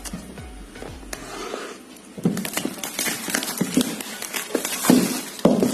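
Cardboard retail box being handled and opened by hand: a busy run of scraping, rustling and clicks starting about two seconds in.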